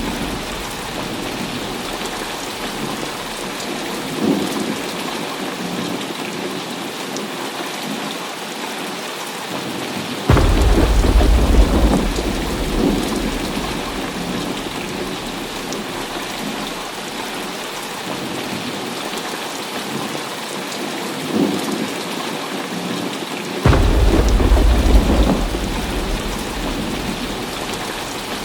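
Heavy rain falling steadily, with two claps of thunder, one about ten seconds in and one about 24 seconds in. Each thunderclap starts suddenly and trails off into a deep rumble over a few seconds.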